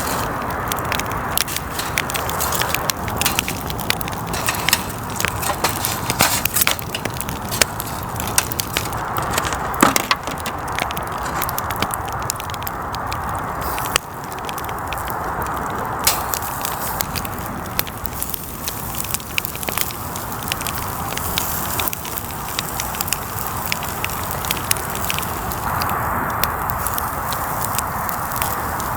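Wood campfire crackling, with many irregular sharp pops over a steady hiss.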